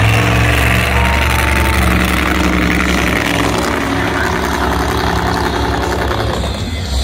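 Monster truck engine running loudly and steadily with a deep rumble, easing off slightly near the end.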